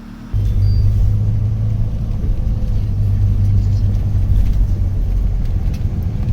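Steady low rumble of a moving vehicle, starting abruptly about a third of a second in.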